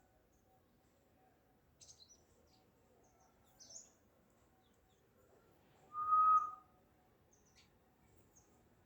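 Small bird chirping with a few short high calls, then one loud, steady whistled note lasting under a second about six seconds in.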